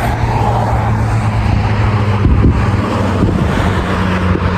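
Vehicle in motion: a steady low engine drone with road and wind noise.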